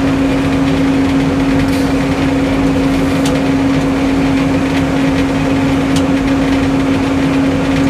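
Sawmill engine running steadily at one even pitch, with a few faint ticks over it.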